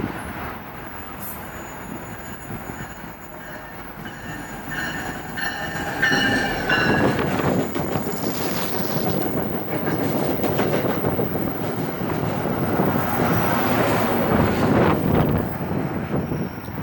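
Train passing on the rails. Its rumble grows loud about six seconds in and stays loud, and for a few seconds before that, high steady tones ring over it, like wheel squeal.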